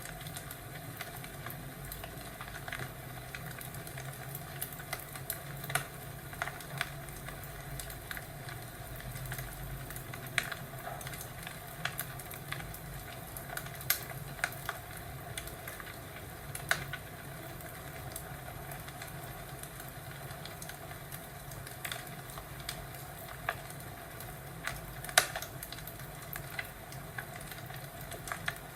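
Wood fire crackling in a fireplace: a steady hiss with irregular sharp pops and snaps, the loudest about 25 seconds in.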